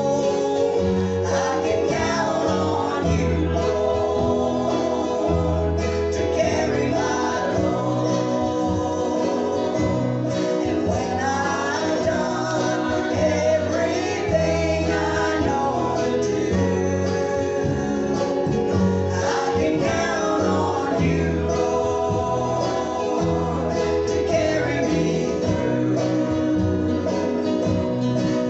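Live gospel group singing a song with guitar accompaniment and a steady bass and drum-machine beat.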